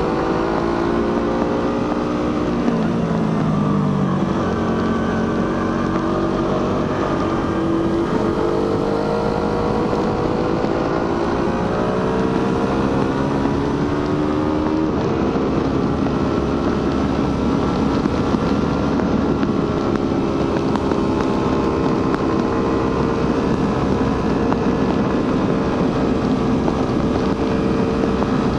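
Suzuki GSX-R150's single-cylinder 150cc engine through its stock exhaust under way: the pitch falls about three seconds in as the bike slows, then climbs, drops back and climbs again before settling into a fairly steady cruise. Wind rushes over the microphone throughout.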